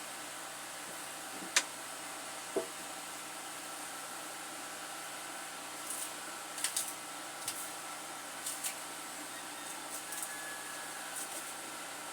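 Steady hiss with scattered light clicks and knocks from handling things during cooking; one sharp click comes about one and a half seconds in, a duller knock a second later, and a run of smaller clicks in the second half.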